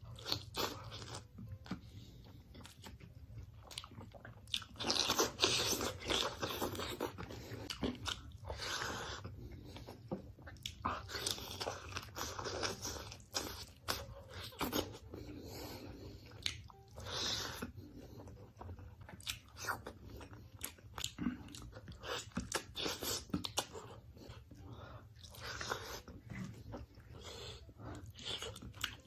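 A person biting and chewing crunchy food close to the microphone: repeated crisp crunches in clusters with short pauses between, over a faint steady low hum.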